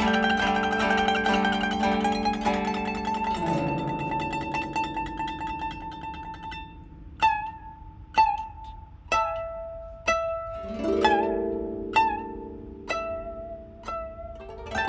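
Two koto playing a duet. A quick run of plucked notes ends about three and a half seconds in on a low note that bends downward and rings out. Then single plucked notes come about once a second, with a lower part joining beneath them near eleven seconds.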